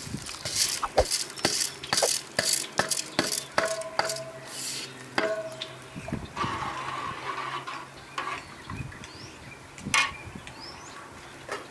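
Utensils clinking and scraping against cookware: a quick run of knocks over the first five seconds, then sparser, with one loud knock near the end. Faint bird chirps.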